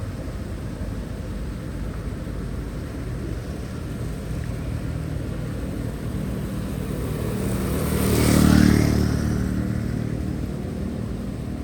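A motor vehicle passing by over a steady low rumble, growing louder and fading again, loudest about eight and a half seconds in.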